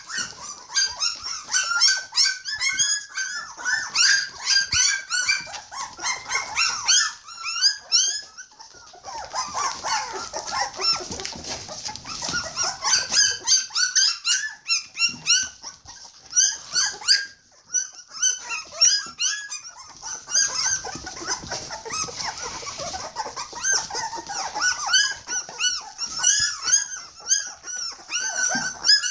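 A litter of three-week-old border collie puppies whining and squealing: many short, high-pitched cries overlapping in a constant chorus, the puppies' hunger call.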